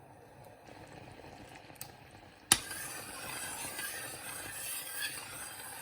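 A sharp clink about halfway through, then a steady bubbling hiss from blueberries and water cooking down into jam in an open pot.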